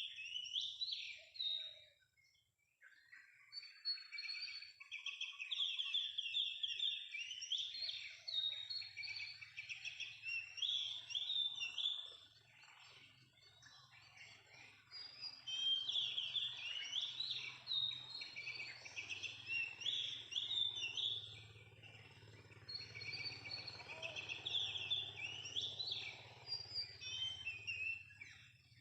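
Oriental magpie-robin (kacer) calling and singing in long bouts of rapid chirps and trills, broken by brief pauses, over a faint low hum.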